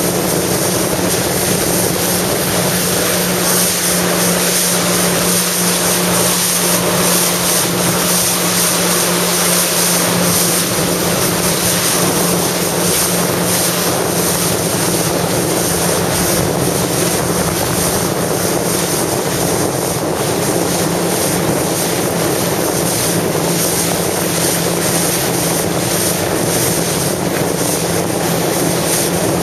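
Jet ski engine running steadily at speed, with water rushing past and wind buffeting the microphone.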